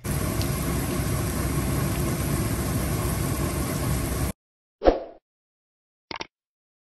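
Carrot and potato pieces frying in hot oil in a pan: a steady, loud sizzle that cuts off suddenly a little past four seconds. A short whoosh follows about a second later, and a single click near the end.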